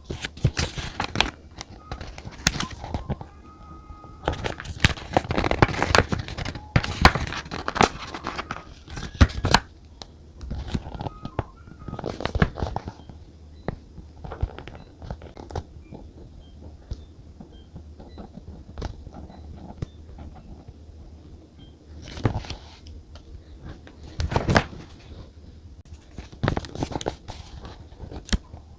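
Desk journaling sounds: paper and stickers rustling and crinkling, with a peel or tear now and then and sharp taps and clicks of small items handled on the desk. They come in irregular clusters, busiest in the first third and again near the end.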